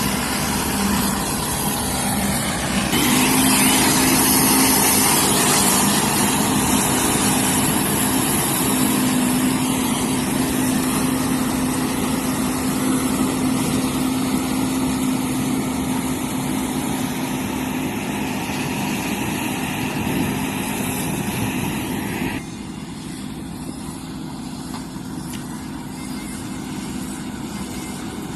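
John Deere W70 combine harvester running: a steady, loud machine noise with a constant low hum. It grows louder about three seconds in and drops suddenly to a quieter level a few seconds before the end.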